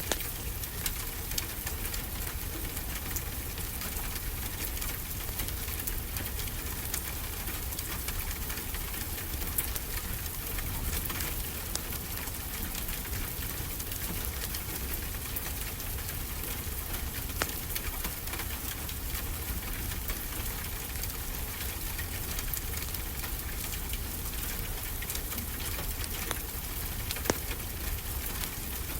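Fireplace crackling, with many scattered sharp pops over a steady hiss, layered over the constant low rumble of ocean waves.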